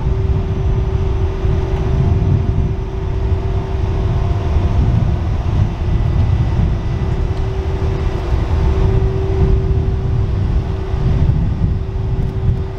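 Thalys high-speed train moving slowly through the station: a heavy low rumble with a steady humming tone from the traction equipment.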